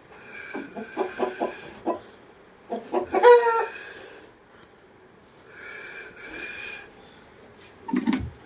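Chickens clucking in short repeated notes, with one loud harsh call a little over three seconds in and more calls starting near the end.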